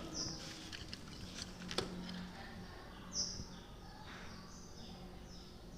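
Birds chirping in short, high, falling calls, more of them in quick succession near the end. A sharp click comes about two seconds in, over a faint steady low hum.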